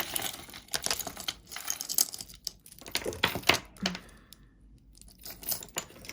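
Jewelry being handled: plastic crinkling and rustling with many small sharp clicks of metal and beads, quieter for a moment about four seconds in.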